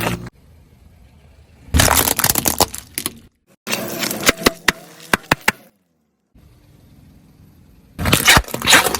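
Objects being crushed under a car's tyre: three separate bursts of crunching and cracking, the first about two seconds in, the second about four seconds in with a quick run of sharp snaps, and the third near the end.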